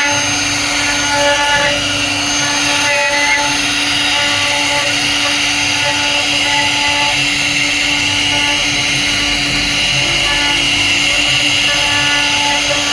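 CNC router spindle running steadily as it carves wood, a continuous motor whine with steady held tones over the noise of the cut.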